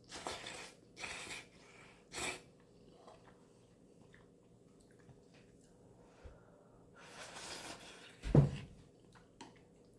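A person eating instant noodles from a pot: three short breathy slurps in the first few seconds, a longer slurp near the end, then a brief low thump.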